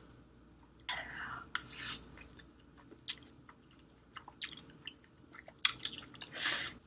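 Close-miked chewing of spicy instant ramen noodles: irregular wet mouth clicks, with two longer, louder noisy bursts about a second in and near the end.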